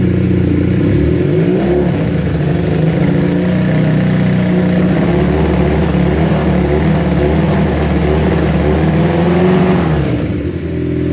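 Kawasaki KZ440's air-cooled parallel-twin engine revved from idle, its note climbing and wavering unevenly for several seconds, then dropping back to idle near the end. The uneven note is the stutter the owner is asking about: the engine loses power around 5,000 rpm, then catches again.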